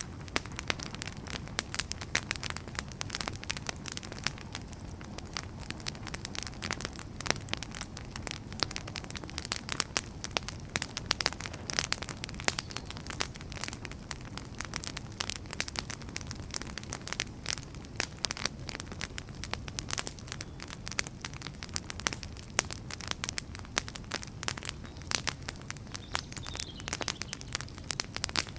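Wood fire burning, with a constant low rumble and frequent sharp crackles and pops from the logs.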